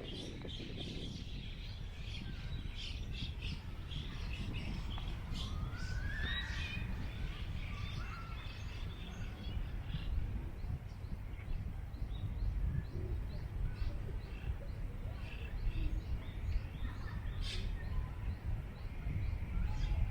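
Wind rumbling on the microphone, with small birds chirping again and again over it and one rising call about six seconds in.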